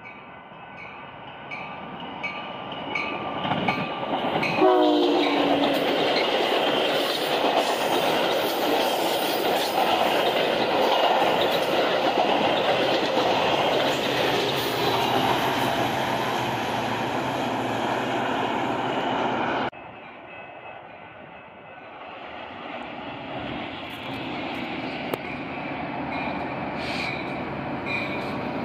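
A bilevel commuter passenger train passes at speed. A bell rings steadily as it approaches, and about five seconds in its horn sounds briefly, falling in pitch as it goes by. Then comes the loud noise of the passing cars, which cuts off suddenly about twenty seconds in. After that the bell rings again, with rising noise as another train approaches.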